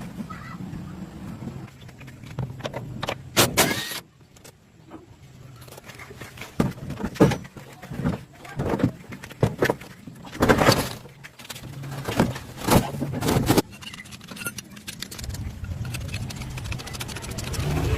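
Car repair work: sharp metallic clinks and knocks, some in quick clusters, over a low steady hum that is there at the start and comes back near the end.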